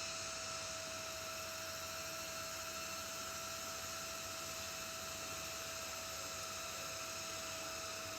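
Steady electrical hum and hiss with a constant mid-pitched tone, unchanging throughout.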